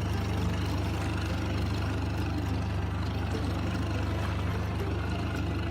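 A boat's motor idling with a steady low hum.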